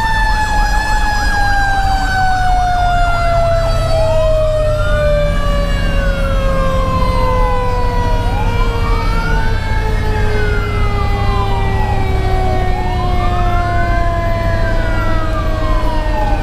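Fire engine sirens heard from inside the cab. The Federal Q2B mechanical siren winds down in one long falling tone. At the same time an electronic siren yelps fast for the first couple of seconds, then switches to a slow wail that rises and falls about every four seconds. The truck's Detroit Series 60 diesel and road noise rumble underneath.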